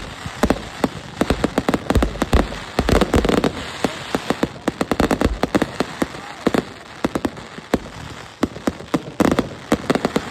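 Fireworks going off in quick succession: dozens of sharp, irregular bangs and pops overlapping, several a second, over a steady crackling hiss.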